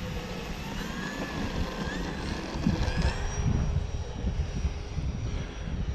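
Motor and propeller of a foam radio-controlled Air Tractor model plane whining in flight, its pitch rising and falling with the throttle, over wind buffeting the microphone.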